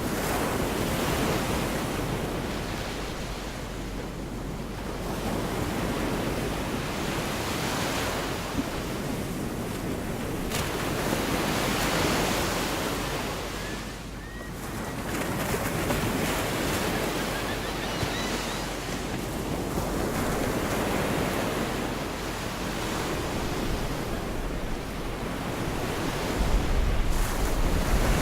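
Gulf of Mexico surf: waves breaking and washing on the beach, swelling and fading every few seconds. Wind buffets the microphone near the end.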